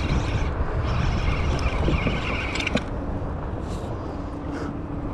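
Strong wind buffeting the action-camera microphone, a dense low rumble. A higher whirring hiss over it stops with a few clicks nearly three seconds in.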